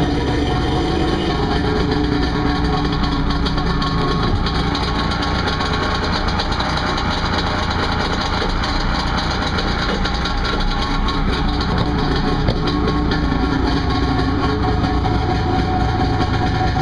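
2001 Kawasaki STX 900 jet ski's 900 cc two-stroke triple-cylinder engine idling steadily soon after a cold start.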